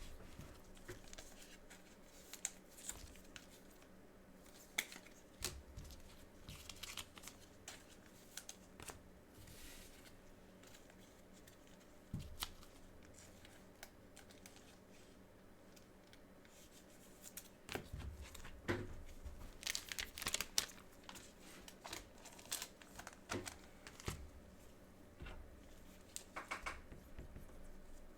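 Plastic wrapping and card packaging being crinkled and torn by hand, with scattered light clicks of cards and cardboard being handled; busiest about two thirds of the way in and again near the end.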